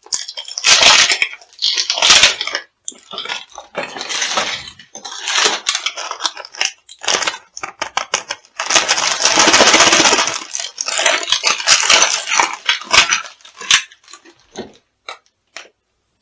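Crunchy food being crushed underfoot: a run of crackling crunches, the longest and loudest about nine seconds in, dwindling to a few small crackles near the end.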